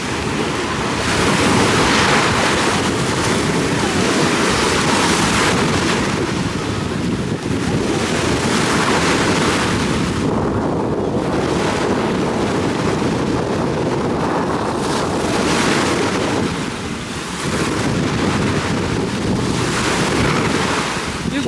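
Ocean surf breaking and washing up on a beach, surging every few seconds, with wind buffeting the microphone.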